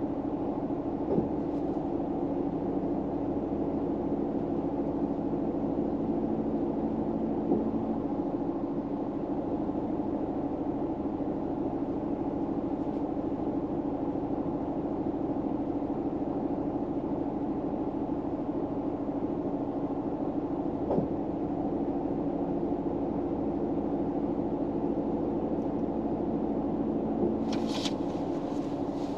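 Steady low hum and rumble of a car's interior, with a few faint clicks and a brief rustle near the end.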